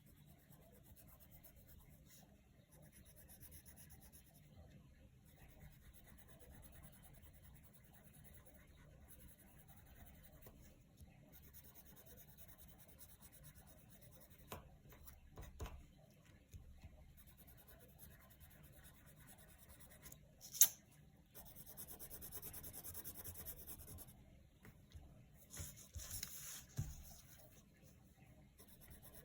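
Coloured pencil scratching on paper in stretches of shading strokes, quiet, with one sharp click about two-thirds of the way through and a louder patch of scratching just after it.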